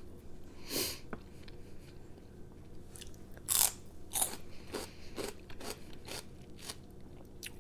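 Close-miked chewing and crunching of food: a string of short, irregular crunches, with the louder ones about a second in and around three and a half to four seconds in.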